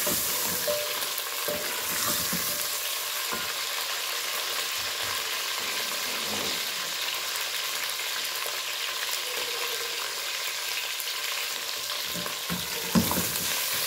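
Chicken legs frying in hot oil with sliced onions in an aluminium pot: a steady sizzle, with a wooden spatula scraping and knocking against the pot as they are stirred, and a sharp knock near the end.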